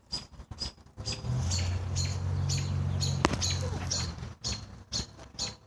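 A caught bird giving short, high, squeaky distress chirps about three times a second. A low steady rumble runs under the chirps for about three seconds in the middle, with a single sharp click partway through.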